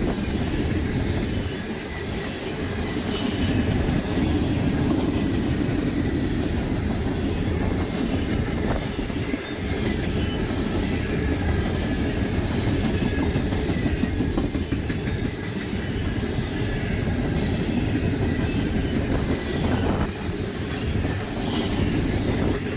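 A loaded coke train's freight cars rolling past: a steady rumble of steel wheels on rail, with occasional clacks.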